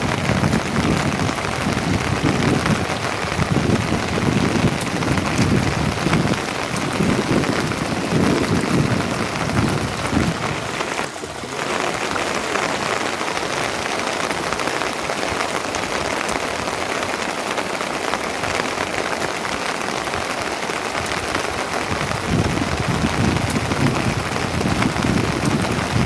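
Steady heavy rain, with low rumbling surges in the first ten seconds and again near the end, and a brief dip about eleven seconds in.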